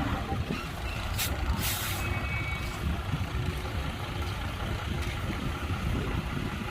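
Heavy diesel engine running steadily at a low rumble, with two short hisses of air a little over a second in.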